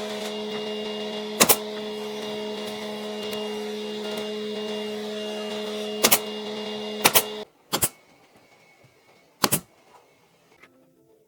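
A small electric motor whirs steadily for about seven seconds, then cuts off suddenly. Sharp knocks land over it three times, and two more follow after it stops.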